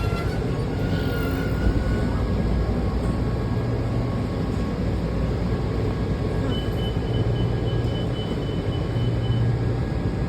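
Washington Metro railcar heard from inside: a steady low rumble and hum, with a thin high tone for about three seconds in the second half.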